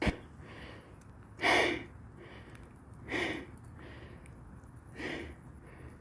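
A man breathing hard into the microphone, in a steady rhythm of about one breath every second and a half to two seconds, with three louder breaths and fainter ones between them. A short click comes right at the start.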